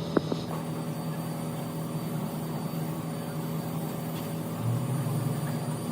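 An engine running steadily with an even hum, and a couple of light clicks just after the start.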